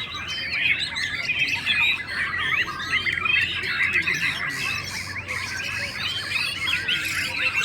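Many white-rumped shamas singing at once: a dense, overlapping chorus of quick whistles, trills and chirps with no pause.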